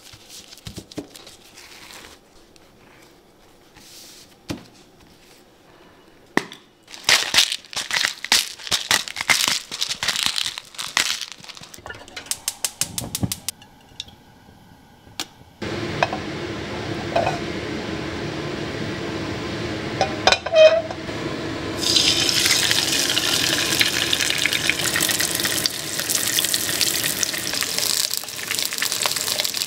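Kitchen work: a run of quick knocks and scrapes, then from about halfway a steady sizzle of food frying in hot oil that grows louder and brighter a few seconds later.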